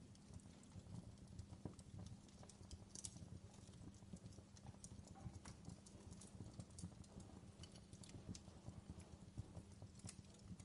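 Fireplace fire crackling faintly: irregular sharp pops and snaps over a low steady rumble of the flames.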